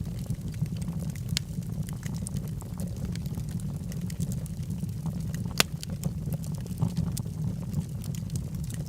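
Wood logs burning in a fireplace: a steady low rumble of the flames under frequent sharp crackles and pops, with one louder pop a little past halfway.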